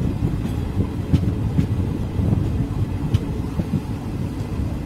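Indian Railways passenger train running along the track: a steady low rumble of wheels on rail with a few faint clicks.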